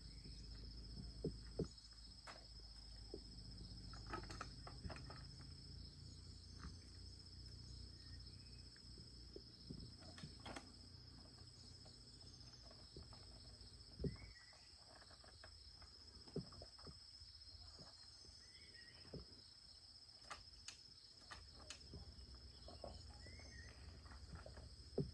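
Faint, steady high-pitched chirring of insects, with scattered small clicks and taps.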